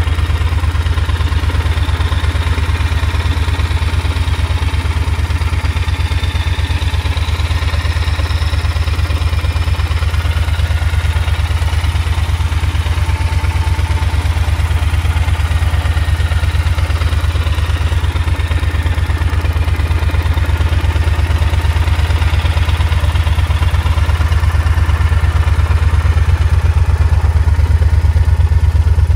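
Triumph Thunderbird 1600's parallel-twin engine idling steadily, with a deep, even exhaust note that grows slightly louder near the end.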